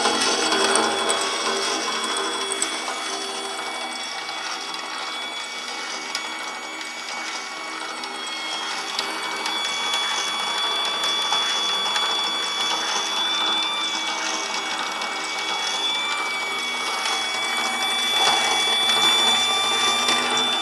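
Mini plastic shredder driven by a 12 V DC windshield wiper motor, running steadily: a gear whine with a couple of high steady tones over a dense crackle of clicking.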